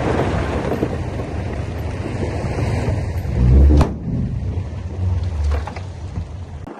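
Heavy earth-moving machinery running with a deep, steady rumble; it swells louder for a moment about halfway through, followed by a single sharp metallic knock, and the sound drops off abruptly near the end.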